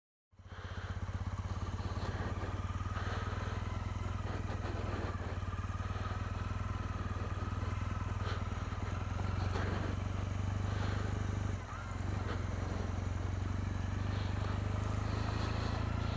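Triumph Bonneville's air-cooled parallel-twin engine idling steadily, with a brief drop about twelve seconds in.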